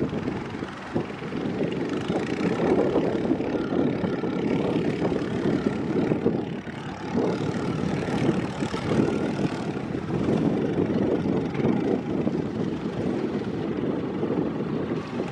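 Boat engine idling, a steady low rumble with uneven swells in level.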